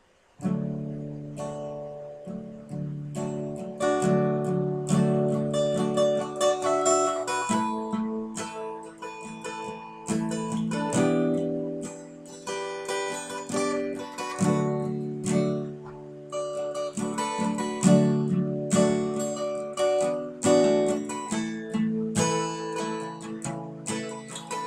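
Acoustic guitar strumming chords, the changing chords of a song's instrumental intro, starting about half a second in.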